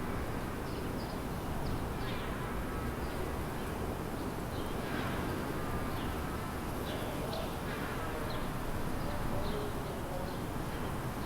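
Small birds chirping in short, scattered calls over a steady low rumble of city traffic.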